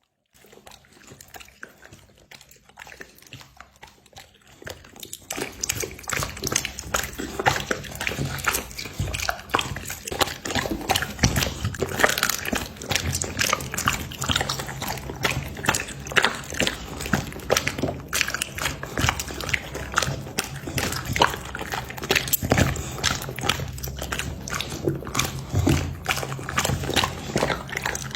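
Dogs eating meat: dense wet chewing, crunching and smacking, faint at first and getting loud and continuous about five seconds in.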